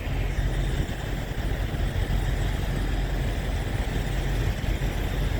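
Semi truck's diesel engine running at low speed, a steady low rumble.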